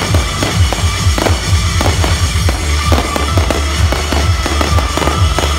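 Fireworks display: many shells bursting in quick succession, sharp bangs and deep thumps overlapping, with show music playing underneath.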